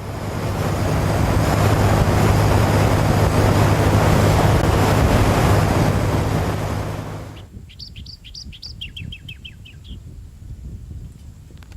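A motor vehicle passes close by, its engine and road noise swelling, holding and then fading away after about seven seconds. A bird then calls a quick run of short descending notes, a few higher ones followed by a faster series.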